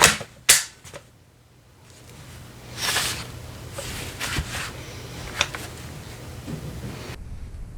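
Airsoft gun being handled and reloaded: two sharp clicks at the start, then rustling handling noise and a few softer clicks.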